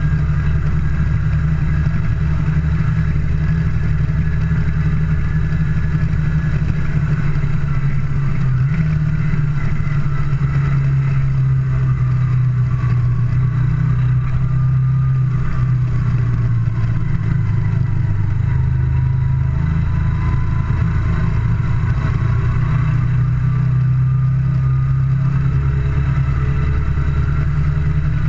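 Moto Guzzi Le Mans II's air-cooled V-twin engine running on the move, heard from the rider's seat. The engine note sinks gradually through the middle and rises again near the end as the revs change.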